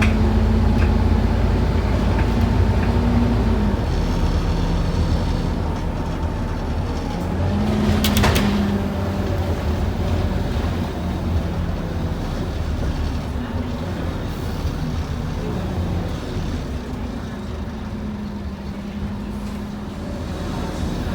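Inside a Scania N230UD OmniCity double-decker bus on the move: its diesel engine drones steadily with road noise, and the engine note shifts up and down a few times as it changes gear and speed. About eight seconds in there is a brief sharp rattle.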